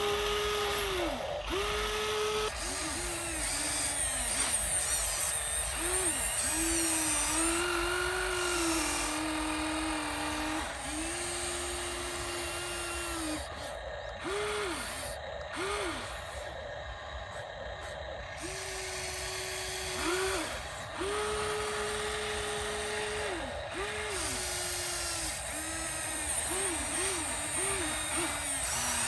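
Small electric motors of radio-controlled toy construction vehicles whining in short runs, starting and stopping over and over, each run sliding up in pitch as it spins up and dropping away as it stops, over a steady gear-and-motor hiss.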